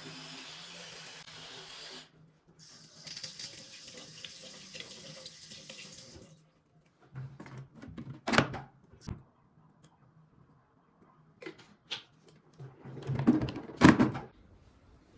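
Steady hiss of running water that stops about six seconds in, followed by a series of sharp clatters and knocks, the loudest two about eight and fourteen seconds in.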